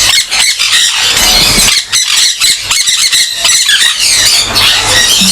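A colony of conure parrots screeching, many harsh, shrill calls overlapping in a continuous din.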